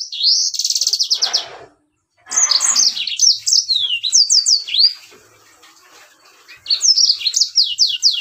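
Yellow-fronted canary (Mozambique canary) singing a fast, varied song of rapid downward-sweeping notes and buzzy trills, in phrases broken by short pauses.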